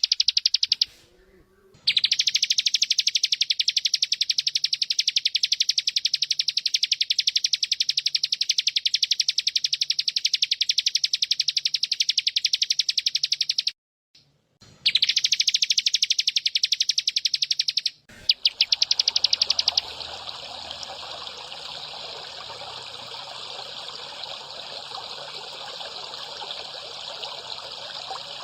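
A loud, high, rapid and very even trill from a songbird-master recording plays in long stretches with a brief break. From about twenty seconds in it gives way to the steady sound of trickling water.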